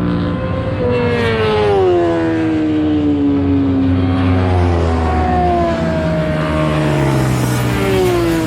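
Several sportbike engines running hard on a racetrack, their whines falling smoothly in pitch one after another as the bikes go by.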